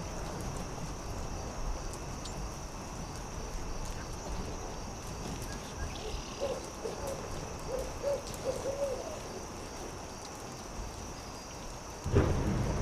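Campfire crackling over a steady low rush, with a run of five or six short owl hoots about halfway through. Near the end a louder low rumble comes in suddenly.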